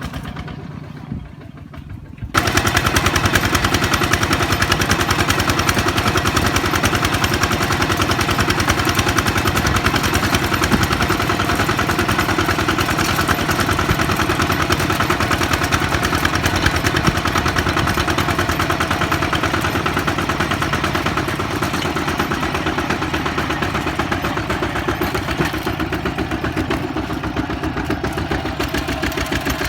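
Kubota ZT155 single-cylinder diesel engine running with a fast, steady chugging. It is quieter for the first two seconds or so, then turns suddenly much louder.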